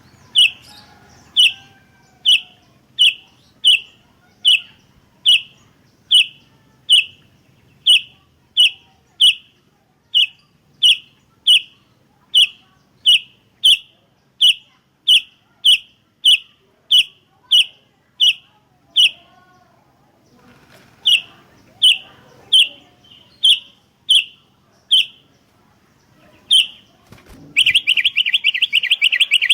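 Sooty-headed bulbul (kutilang) repeating a short, sharp call note about one and a half times a second, with a brief pause about two-thirds of the way through. Near the end it breaks into a rapid chattering trill.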